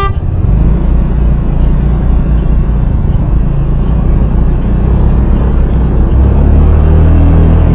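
Low, steady engine and road rumble of a moving road vehicle, getting louder about six seconds in.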